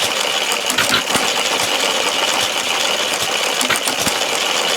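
Small all-billet model engine running, with a steady, fast mechanical clatter and light irregular ticking.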